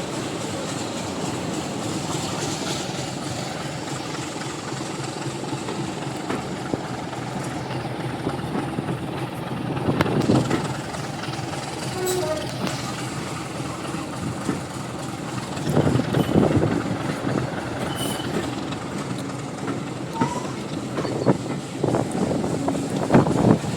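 Moving train: a steady rumble of wheels running on the track, with a few louder knocks roughly six seconds apart.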